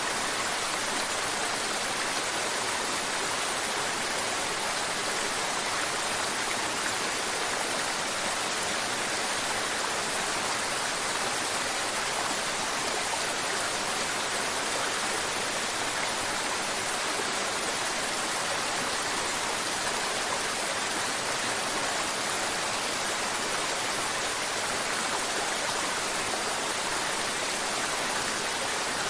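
Mountain river water flowing and babbling over rocks, a steady rushing with no breaks.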